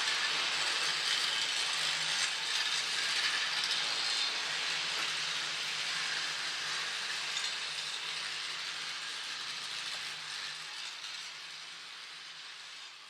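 Hakone Tozan Railway electric train running through the station, a steady mechanical rattle and hiss over a faint low hum, slowly fading toward the end.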